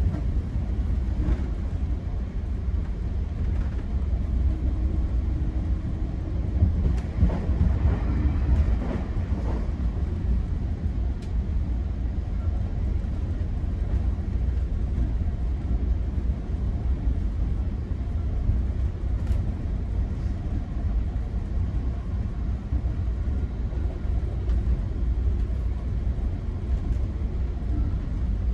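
Steady low rumble of a GO Transit bilevel passenger coach running along the rails, heard from inside the coach, with a few faint clicks and knocks about a quarter of the way in.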